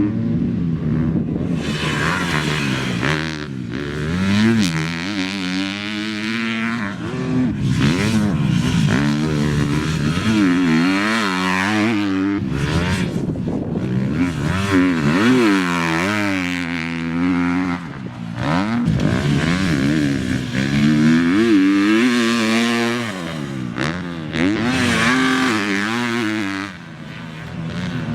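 Motocross bike engine revving hard and backing off again and again, its pitch rising and falling as the bike accelerates, shifts and slows around the track.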